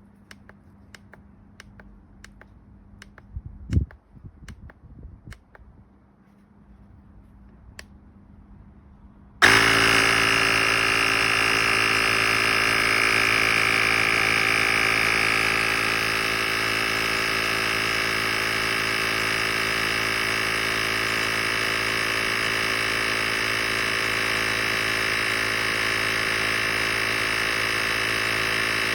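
Small electric air compressor of a jump starter pack switching on suddenly about nine seconds in and running steadily with a buzzing hum, easing slightly a few seconds later. Before it: faint regular ticks and a single thump.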